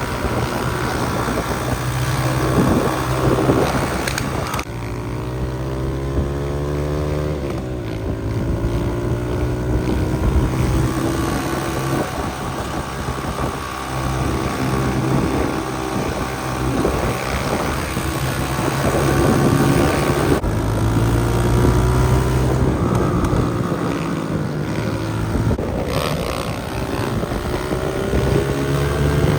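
Motorcycle engine running while riding, revving up and climbing in pitch several times as it accelerates, with wind buffeting the microphone.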